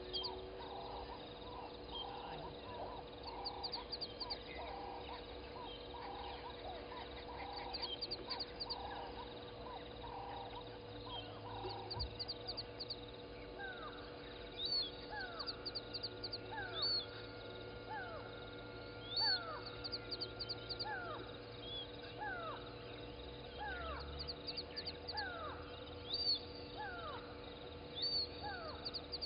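Dawn chorus of wild birds at a waterhole. A run of quick pulsed calls comes first, then from about halfway a series of falling whistled calls, each about a second apart, over high chirps and a steady hum.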